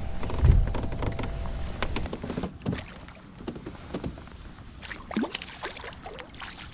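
Water splashing for about two seconds as a hooked smallmouth bass is brought alongside a kayak, then cuts off abruptly, followed by scattered light knocks and clicks of handling in the boat.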